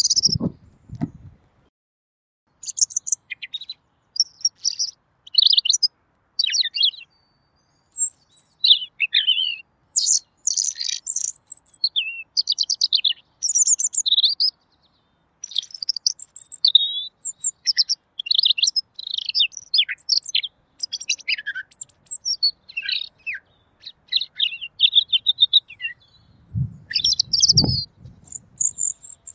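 Pekin robin (red-billed leiothrix) singing clearly: a long run of quick, varied, high warbled phrases with short pauses between them. A few low thumps sound near the start and again shortly before the end.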